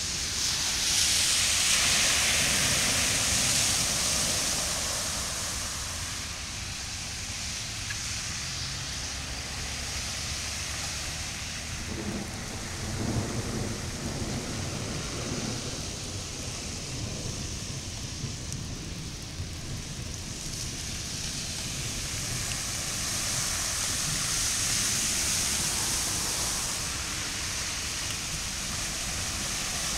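Steady hiss of rain and water on a flooded street. It swells twice, near the start and again in the last third, as cars splash through the standing floodwater. A low rumble comes about halfway through.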